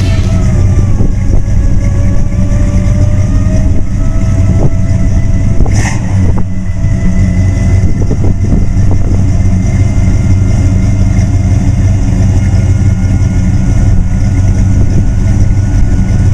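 Oldsmobile 455 V8 idling steadily with a deep exhaust rumble. A faint whine rises slowly over the first few seconds, and there is one brief sharp click about six seconds in.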